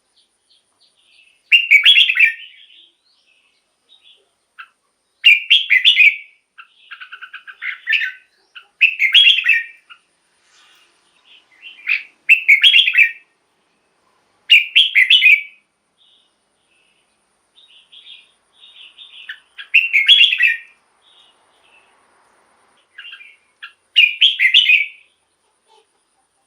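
Red-whiskered bulbul singing: short, loud, bubbling phrases repeated every three or four seconds, with softer chattering notes between them.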